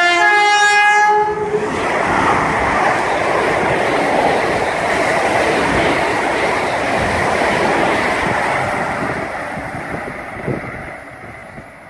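Class 350 electric multiple unit sounds its horn, two notes together, for about a second and a half. It then runs through the station at speed with a loud rush of wheel and air noise that fades away over the last few seconds.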